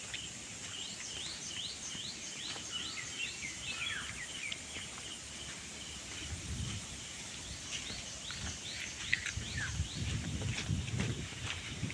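Small birds calling outdoors in series of short, quick rising chirps, a few a second, with a pause in the middle, over a steady faint high hiss. A low rumble of outdoor noise comes in during the second half.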